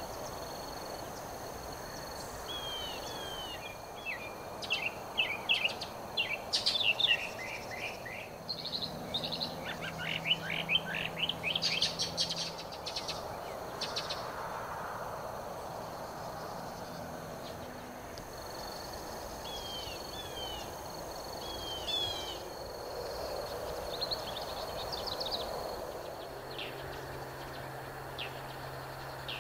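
Birds calling: bursts of quick chirps and short down-slurred notes, loudest in the first half, over a steady background hum and a constant thin high tone.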